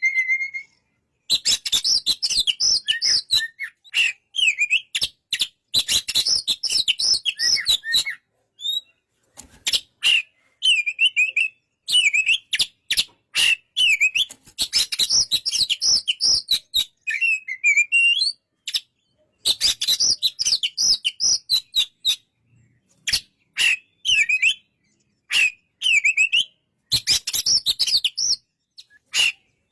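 Oriental magpie-robin singing: bursts of quick, varied whistled notes and chattering phrases with short pauses between them.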